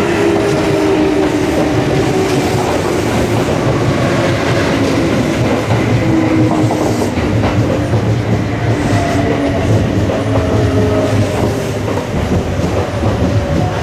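Red-and-white Kintetsu electric commuter trains running past close by, their wheels clicking over the rail joints with a steady whine underneath.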